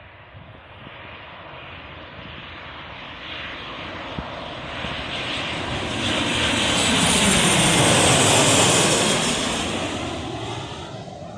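Jet airliner's engines passing low overhead: a steady jet roar that builds for several seconds, peaks about eight seconds in with a high whine falling in pitch, then fades away.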